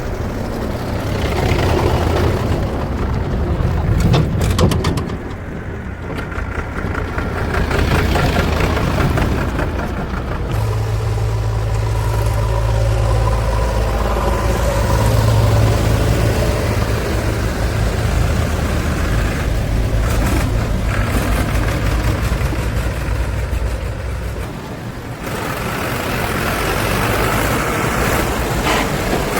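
Heavy diesel engines of a backhoe loader and tractors running. The note rises and falls as the machines work under changing load.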